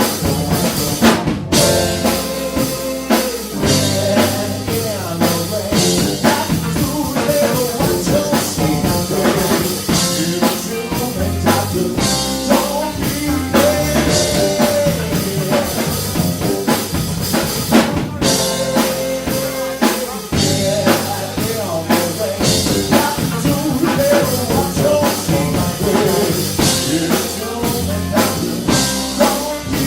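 Live band playing a song: drum kit beating steadily under guitar, with some singing.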